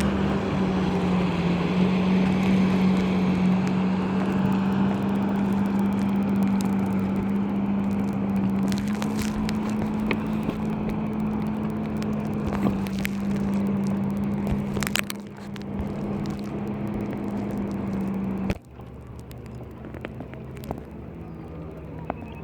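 A motor running at a steady pitch, which cuts off suddenly near the end.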